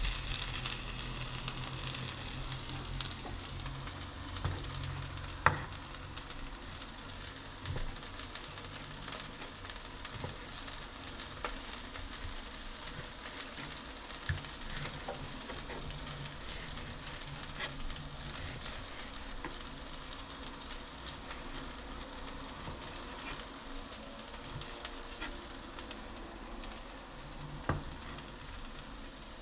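Food sizzling as it fries in a pan, with a steady hiss and scattered crackles, and stirring knocks now and then; one sharper knock comes about five seconds in and another near the end.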